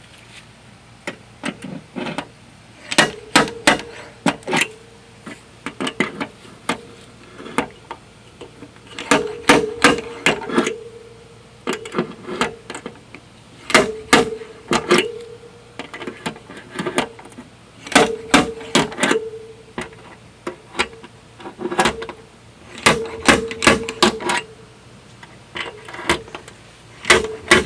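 Dent-repair tools striking the steel tailgate panel in bursts of several sharp metal knocks every few seconds, the sheet metal ringing after the strikes as a dent is worked out.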